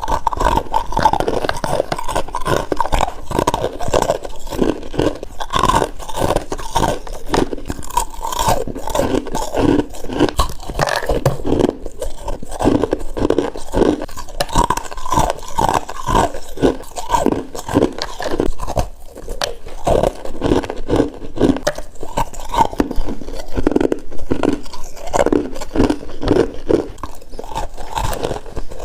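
Close-up bites into packed frost, a steady run of crisp crunches one after another with no pause.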